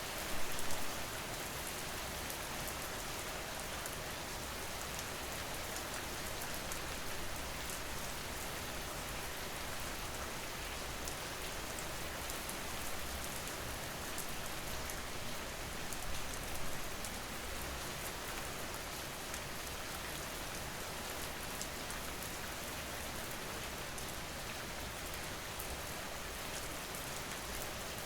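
Steady rain falling on hard surfaces: an even hiss with fine scattered drop ticks, swelling briefly about half a second in and again about halfway through.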